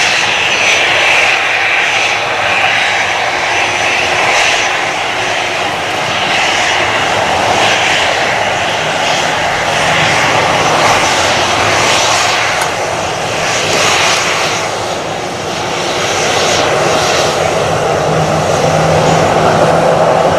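Jet engines of an EVA Air Airbus A321-211 airliner running loud and steady at close range, with a slight swell and dip in level.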